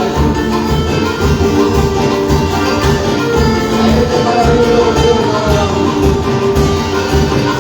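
Latin-style Christian praise music played by a live band, with a steady beat and melodic instruments.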